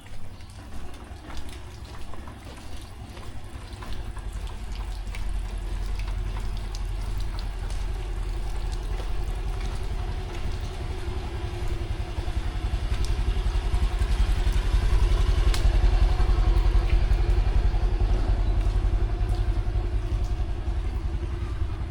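A motor vehicle approaching and passing. Its engine grows louder over about a dozen seconds and eases off near the end, over a steady hiss of heavy rain.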